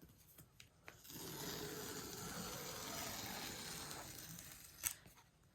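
Tear-off seal strip being pulled off the back of a cardboard box: a few small clicks, then a steady tearing rasp for about three seconds, and a sharp snap near the end.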